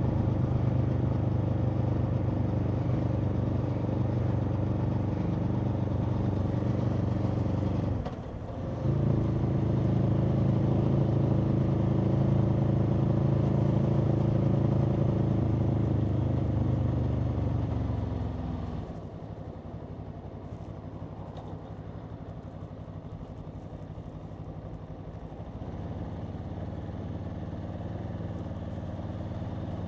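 Aprilia Tuono V4's V4 engine running at a steady note, with a brief dip about eight seconds in. A little past halfway the engine note falls away, leaving a quieter steady rushing noise.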